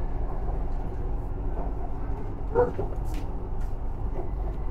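Interior noise of a moving BTS Skytrain car on its elevated track: a steady low rumble of the running train, with a brief louder sound about halfway through.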